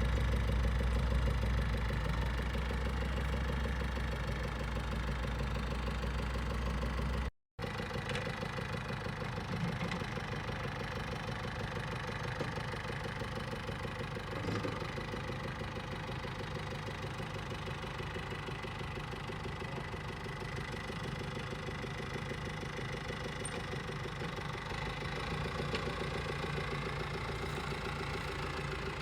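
Tractor engine running steadily at working speed. The sound cuts out for a moment about a quarter of the way in, and afterwards the engine carries on with less deep bass.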